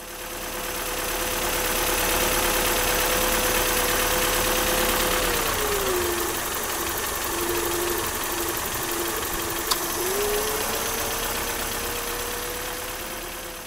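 Toyota 4A-GE four-cylinder engine idling with its intake open, a steady hiss of air into the throttle body with a whine over it. About five and a half seconds in, the idle sags and the whine drops in pitch as a finger covers the small idle-control-valve hole in the throttle body. About four seconds later it climbs back when the hole is uncovered. This is the idle speed control valve test on a hot engine, where a drop of more than 100 RPM points to a stuck valve.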